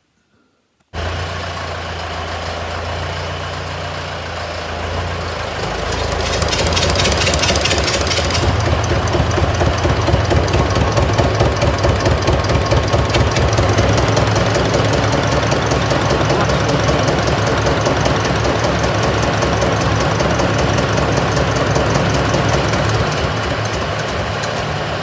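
Tractor engine running, driving a belt that turns over a Massey baler's Armstrong Siddeley diesel engine in an attempt to start it. The sound starts suddenly about a second in and picks up and grows louder about six seconds in, with a steady rhythmic beat.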